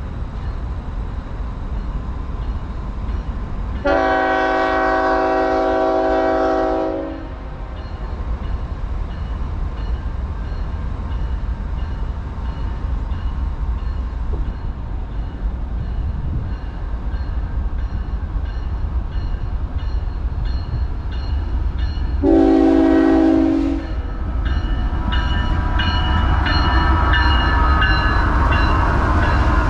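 Diesel locomotive air horn sounding a chord: one long blast of about three seconds, then a short blast some fifteen seconds later. Near the end, the rail noise grows louder as the train draws near.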